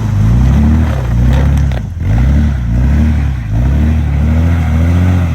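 Off-road 4x4's engine revving up and down over and over, rising and falling in pitch about once a second, as it strains to climb a trail obstacle without enough traction.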